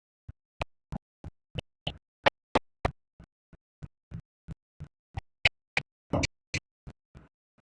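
A steady train of short, sharp knocks or clicks, about three a second, varying in loudness, with nothing heard between them.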